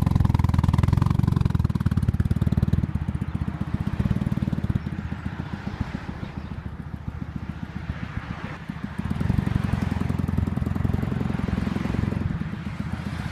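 BMW R80's air-cooled flat-twin (boxer) engine running, with a steady pulsing exhaust beat. It eases off in the middle and grows louder again about nine seconds in.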